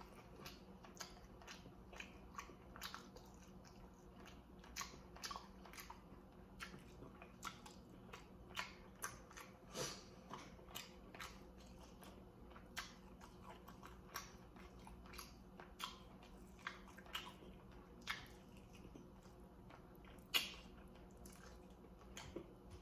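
Close-up biting and chewing of baked barbecue chicken legs: a quiet, steady run of short mouth clicks and smacks, with one louder one near the end.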